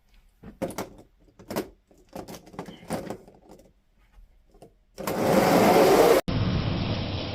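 Die-cast toy trucks and cars clattering on a plastic track, a string of light rattles and knocks. About five seconds in, a loud rushing noise starts, breaks off sharply a second later and carries on slightly quieter.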